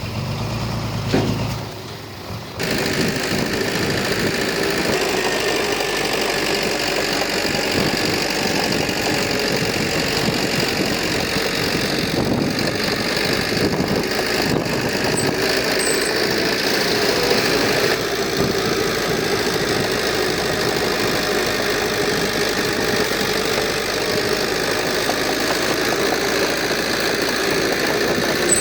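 Heavy construction machine's diesel engine running steadily, with a brief low rumble about a second in before the engine sound comes in louder and holds even.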